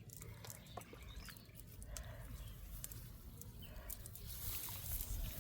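Outdoor ambience: scattered short, high chirping animal calls over a low steady rumble, with a few sharp clicks.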